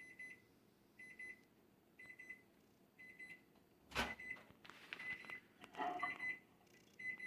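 Timer alarm beeping, a quick run of high beeps repeated about once a second, signalling that the waiting time is up. A sharp click about four seconds in.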